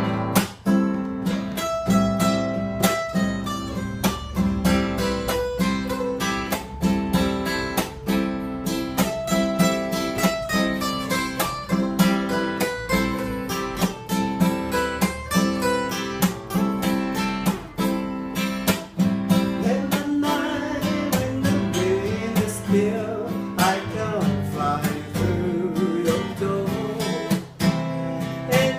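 Acoustic guitar strummed in a steady rhythm, with a voice singing along from about twenty seconds in.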